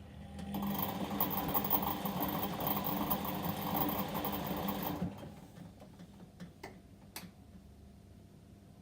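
Whirlpool washing machine's motor turning the drum on a delicate wash cycle for about four and a half seconds, then stopping abruptly. A few sharp clicks follow.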